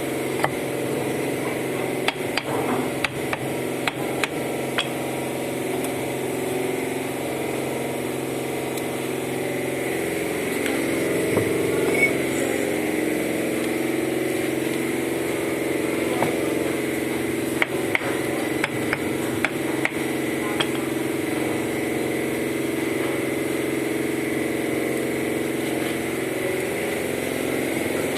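A steady machine hum like a running motor, with clusters of sharp taps and clicks of bricklaying as bricks are set and tapped into place, around the first few seconds and again in the middle.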